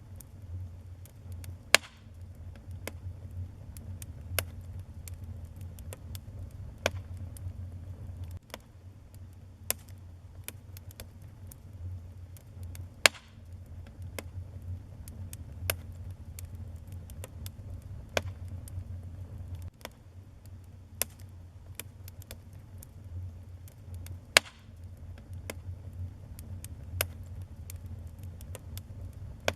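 Wood fire burning in a fireplace: a steady low rumble of flames under constant crackling, with three louder sharp pops spread through.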